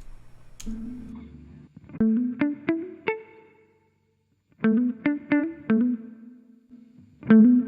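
A plucked guitar loop playing back through a vintage saturation plugin: a phrase of quick picked notes over a low held note, repeating about every two and a half seconds, with a brief gap in the middle. A couple of clicks come right at the start.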